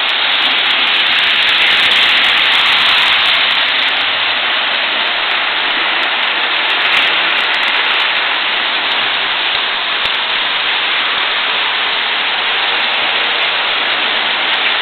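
Model trains running on the layout's track: a steady rolling hiss of wheels and motors, with a few faint clicks.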